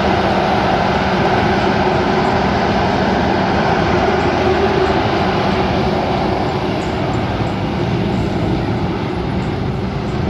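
Rice combine harvester's engine running steadily in the field.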